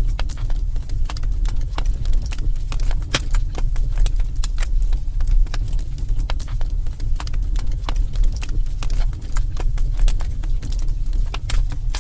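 Wood fire in a fireplace crackling: frequent irregular pops and snaps over a steady low rumble.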